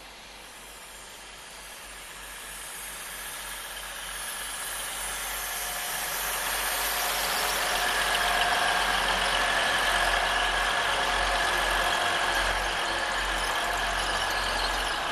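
Multi-coach passenger train approaching and passing at speed: rail and wheel noise that swells over the first several seconds, then holds loud with a steady high whine over it.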